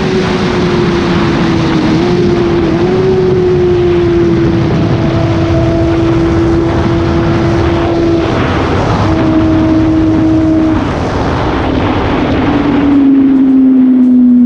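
Kawasaki Ninja ZX6R's inline-four engine through an Austin Racing exhaust, running at high, steady revs under heavy wind rush. The note breaks briefly twice around the middle, then the revs fall away near the end.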